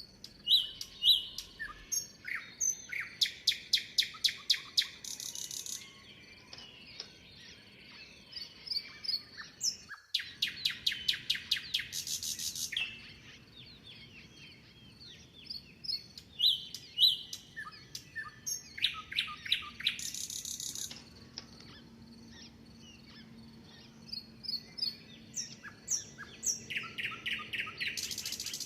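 Songbirds singing: one bird repeats a song of a quick run of about ten short notes ending in a harsh buzzy note, four times, roughly every eight to nine seconds. Other birds chirp in between.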